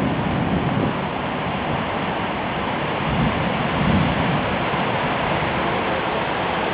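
Wind blowing hard, a steady rushing with gusts buffeting the microphone, as a storm moves in.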